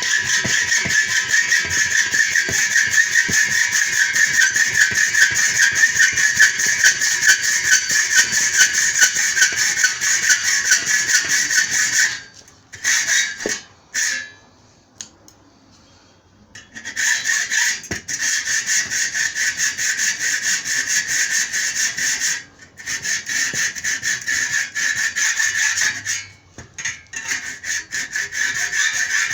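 Hacksaw cutting metal window-frame stock in fast, rhythmic rasping strokes, stopping and starting again several times.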